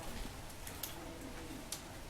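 Faint, low cooing of a dove, with two short sharp clicks.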